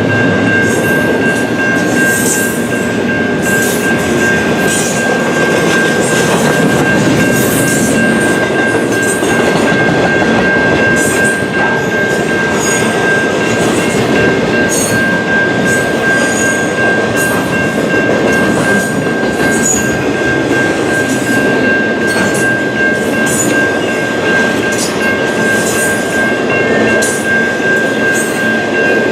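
A freight train passing at close range: a steady rumble of rail cars rolling over the track, with scattered wheel clicks. A steady high-pitched wheel squeal runs over it throughout.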